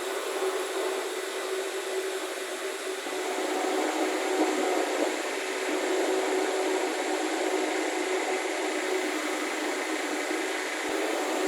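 A power tool running steadily: a continuous whirring hiss with a steady hum underneath.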